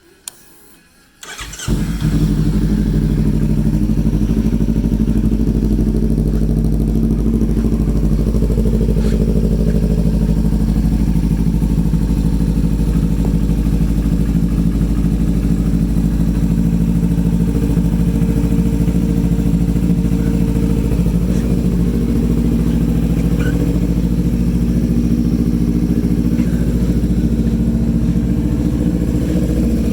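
Kawasaki Ninja 300 parallel-twin engine starting about a second and a half in, after a short click, and then idling steadily.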